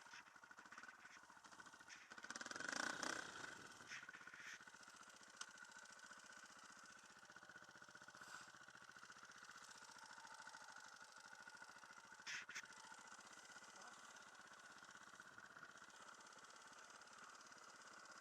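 Dirt bike engine running faintly at a steady low speed, with a brief louder burst of noise about three seconds in and a short sharp sound about twelve seconds in.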